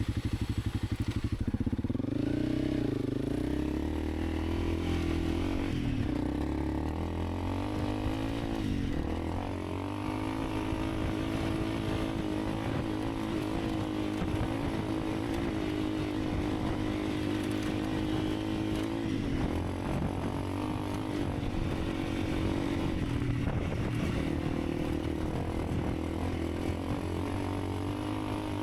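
Honda CRF300 Rally's single-cylinder four-stroke engine, at first a slow pulsing idle, then revving up about two seconds in and running steadily under way, its pitch dipping and climbing again several times.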